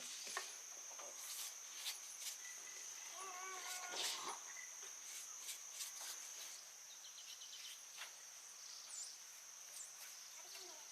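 A steady high-pitched insect drone, like crickets or cicadas, with scattered sharp clicks and a few brief bird chirps.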